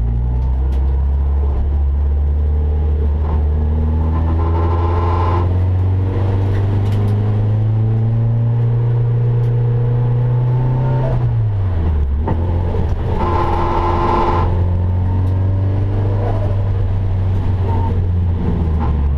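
Nissan 240SX race car's turbocharged SR20DET four-cylinder engine heard from inside the stripped cabin, running steadily at modest revs. The revs climb slowly, drop sharply about eleven seconds in, then hold steady again.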